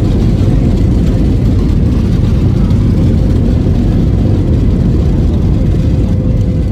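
Loud, steady rumble inside a jet airliner's cabin as the aircraft rolls out and brakes on the runway after touchdown, with a faint steady hum above the rumble.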